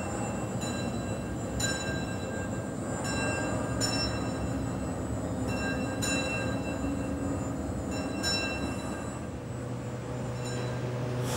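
Narrow-gauge train running with a steady low rumble, while clear bell-like chimes ring out every one to two seconds.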